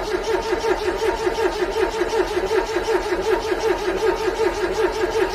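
Car engine cranking on the starter in freezing cold without catching: a steady starter whine that pulses rapidly and evenly with each compression stroke.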